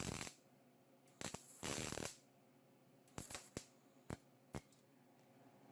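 Handling noise from a workbench: a few short scrapes in the first two seconds, then about five sharp, scattered clicks and knocks, like tools and sheet-metal pieces being picked up and set down.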